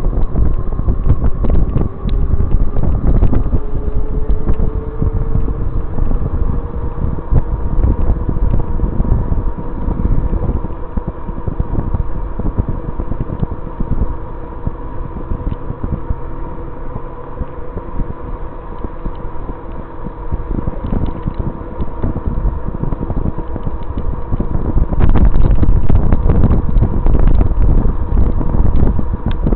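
Wind buffeting the microphone while riding an e-bike, over a steady electric motor whine with several pitch lines, one rising slightly about four seconds in. The wind rumble grows louder near the end.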